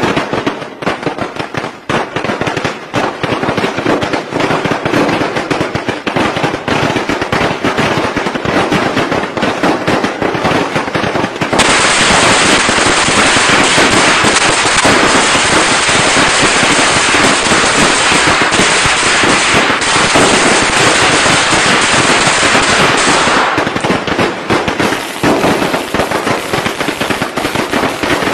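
Strings of firecrackers going off in a rapid, continuous crackle of bangs. About twelve seconds in the sound turns into an even denser, harsher barrage, which gives way again to separate rapid bangs about eleven seconds later.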